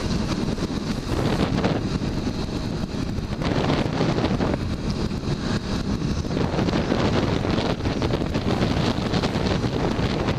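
Strong, gusty wind buffeting the microphone while riding a Suzuki SV650 motorcycle on the highway, a heavy rush that swells and eases from moment to moment. The bike's engine and road noise run underneath.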